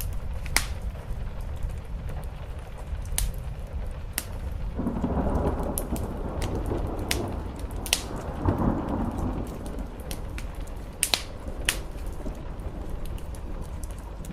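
Fireplace crackling, with sharp single pops every second or so, over steady rain on a roof. From about five seconds in, a swell of deeper rumbling noise rises for about five seconds, then fades.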